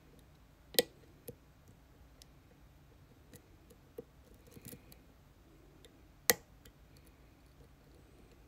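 Lock being picked: two sharp metallic clicks, a few fainter ticks and a short bit of light scraping as the tools work inside the lock.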